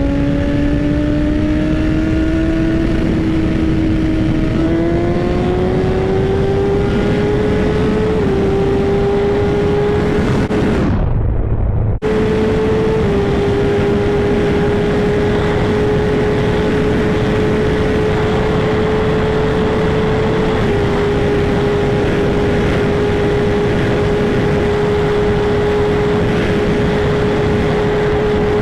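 Inline-four engine of a 2012 Honda CBR1000RR sportbike accelerating hard, its note climbing in steps through the gears. After a brief sudden drop about eleven seconds in, it holds a steady high cruising note. Wind rushes over the helmet microphone throughout.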